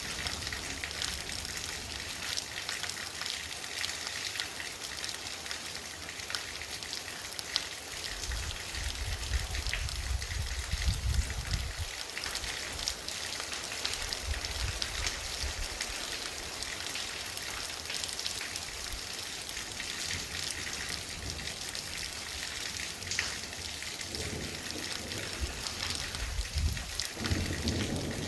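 Heavy rain falling steadily during a thunderstorm, with many individual drops ticking sharply. Twice a low rumble swells for a few seconds: about a third of the way in and again near the end.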